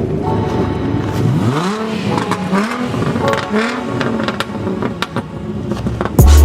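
Car engine revved several times, its pitch rising and falling with each rev, with scattered sharp clicks. Loud bass-heavy music cuts in near the end.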